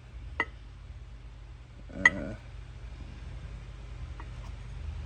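A few light metallic clinks, the loudest about two seconds in, with fainter ticks later: a steel socket being handled and fitted against a new mini-bike wheel bearing.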